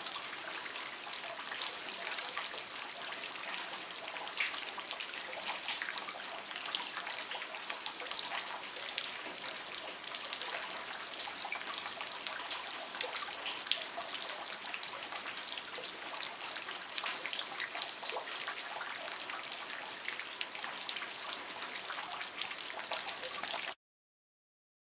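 Rain falling, a dense patter of drops and drips, that cuts off suddenly near the end.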